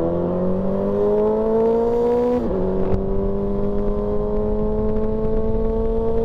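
Motorcycle engine accelerating on the road, its pitch climbing, dropping at a gear upshift about two and a half seconds in, then climbing slowly again, with wind and road noise underneath.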